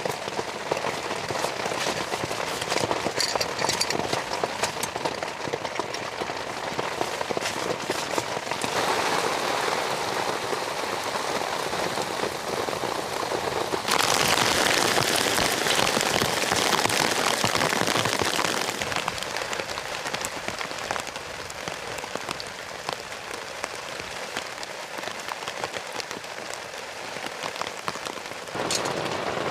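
Steady rain falling, with separate drop ticks showing through. Its loudness jumps abruptly several times, loudest for a few seconds in the middle.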